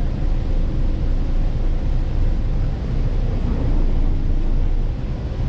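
Passenger ferry under way: a steady rumble of the boat's engine mixed with wind buffeting the microphone, with a faint steady drone under it.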